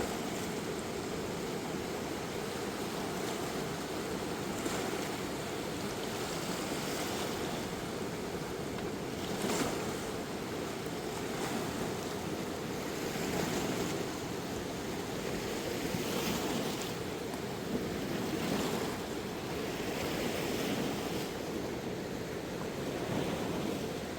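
Steady rush of a swollen river in flood, its noise swelling a little every few seconds.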